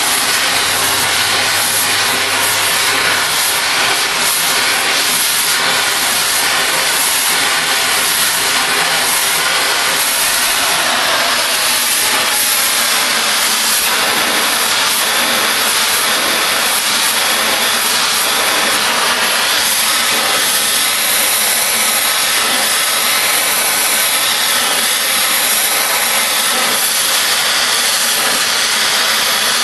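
Oxy-fuel cutting torch hissing steadily as it works through thick steel railroad rail.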